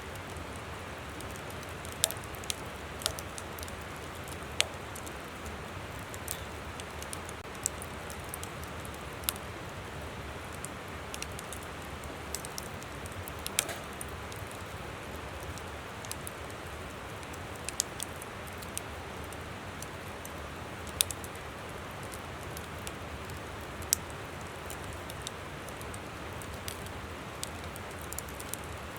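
Wood campfire crackling, irregular sharp pops with about ten louder snaps scattered through, over the steady rush of a flowing river.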